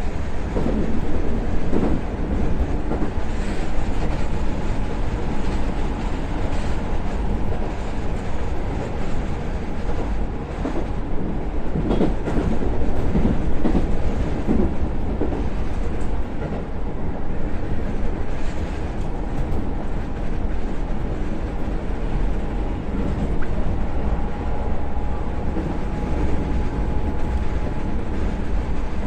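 Keisei 3700 series electric train running at speed, heard from inside the front car: a steady rumble with the clack of wheels over rail joints now and then.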